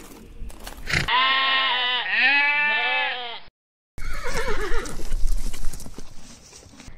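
Livestock calls from two spliced clips: a long wavering cry of about two seconds, a brief gap of silence, then a shorter falling cry over clattering knocks.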